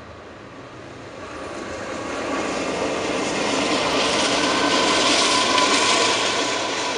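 Diesel-electric freight locomotive approaching and passing close by at speed, its engine and wheel noise building from faint to loud and peaking as it goes by, with the container cars of a double-stack intermodal train following.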